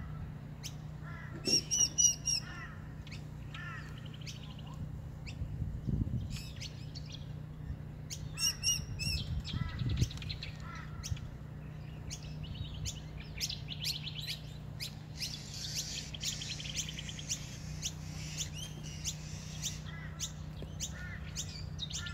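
Several wild birds calling and chirping, with a loud run of repeated chirps about two seconds in and again near nine seconds, and fast trills later on.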